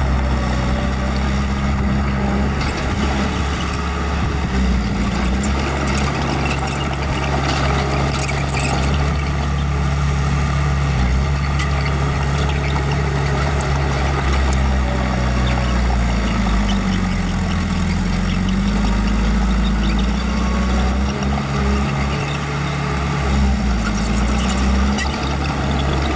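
Small bulldozer's diesel engine running under work, its pitch dropping and recovering in places as the load changes, with scattered clicks and rattles over it.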